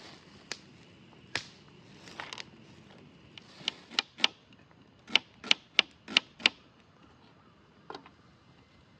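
A run of sharp clicks and knocks, irregularly spaced: scattered at first, then a quick run of about five loud ones in the middle, and a last faint one near the end.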